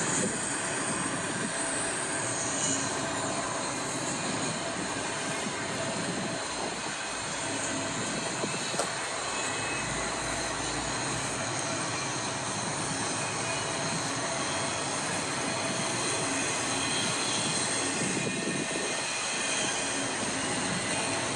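Intermodal freight train rolling past: a steady, even run of steel wheels on the rails.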